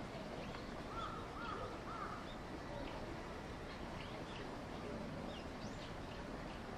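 Birds calling outdoors: three short arched calls in quick succession about a second in, and scattered faint high chirps, over a steady background hiss.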